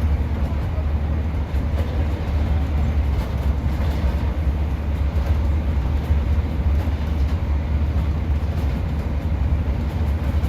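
Steady interior noise of a Class 150 diesel multiple unit: a constant low drone from the underfloor diesel engine under an even wash of running noise.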